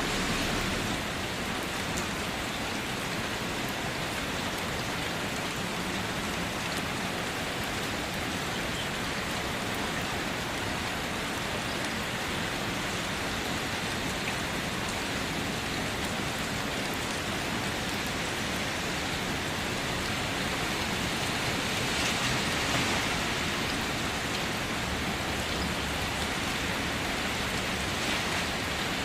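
Steady rain falling on a car, heard from inside: a dense, even patter of drops that swells a little about two-thirds of the way through.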